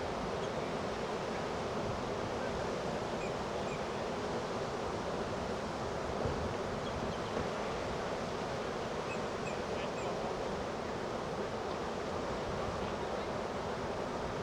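Ocean surf rushing and breaking steadily, churned up by hurricane swell.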